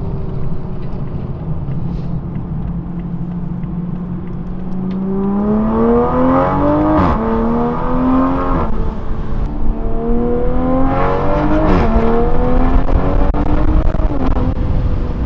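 Toyota Supra engine through an aftermarket racing exhaust with its valves open. It runs steadily at first with its pitch sagging slightly, then accelerates hard. The pitch climbs in rising sweeps, dropping sharply at upshifts about seven and twelve seconds in.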